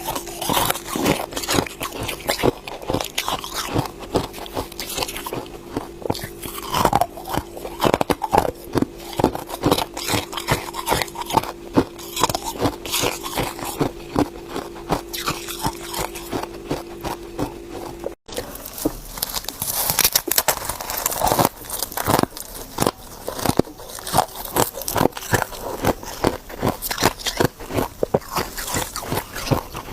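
Ice being bitten and chewed close to the microphone: dense, irregular crisp crunches and cracks, one after another. A faint steady hum sits underneath until a brief dropout about 18 seconds in, after which the crunching continues.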